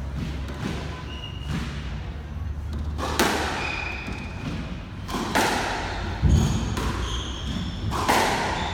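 A squash rally: the ball cracks sharply off rackets and the court walls about four times, one hit landing with a heavy thud, while shoes give short high squeaks on the court floor in between.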